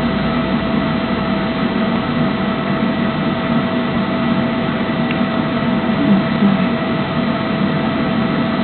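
Steady machine hum over an even hiss, with a few faint steady tones held throughout.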